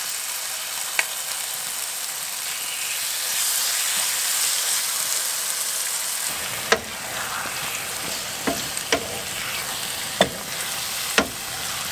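Chicken pieces and a green yogurt, mint and coriander paste sizzling in hot oil in a frying pan as the meat is sealed. A stirring utensil knocks against the pan several times in the second half.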